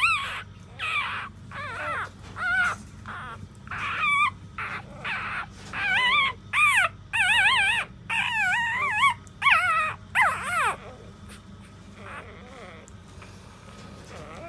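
Four-day-old puppies crying with high-pitched, wavering cries, one after another in quick succession, growing fainter after about eleven seconds.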